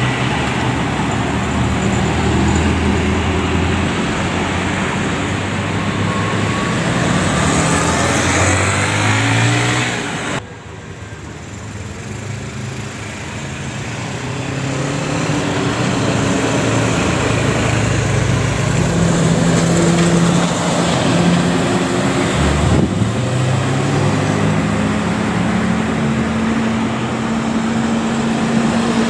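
Engines of large road vehicles running and pulling away, their engine note rising several times. The sound changes abruptly twice, about ten seconds in and again near 23 seconds, where one scene gives way to another.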